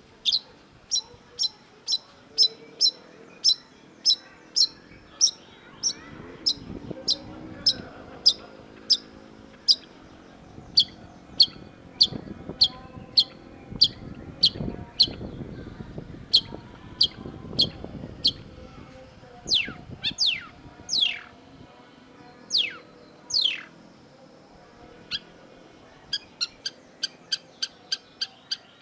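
Long-tailed shrike singing: a fast string of short, sharp chip notes at about three a second, broken near two-thirds of the way through by a few falling whistles, then picking up the rapid notes again.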